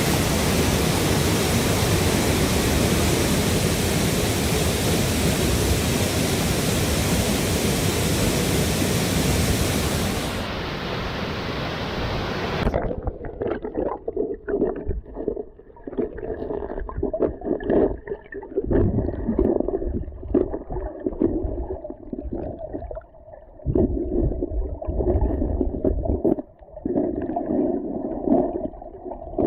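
Loud, steady rush of a swollen mountain stream or waterfall. About halfway through it cuts abruptly to a muffled, gurgling sound with the high end gone, surging and dropping unevenly.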